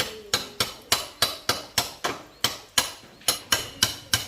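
A hammer striking metal in quick, even blows, about three or four a second, each with a short metallic ring.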